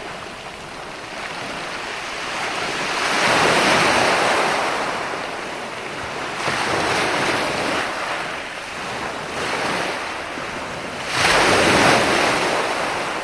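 Ocean waves breaking and washing in, swelling and falling back in several surges a few seconds apart; the loudest breaks suddenly about eleven seconds in.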